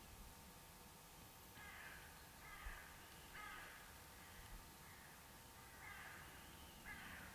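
Faint, harsh calls of a distant bird, three about a second apart, then two more a few seconds later, over a faint steady hiss.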